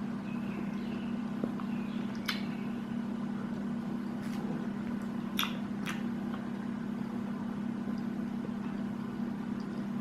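Close-miked eating: chewing of naan dipped in mint chutney, with a few sharp wet mouth clicks over a steady low hum.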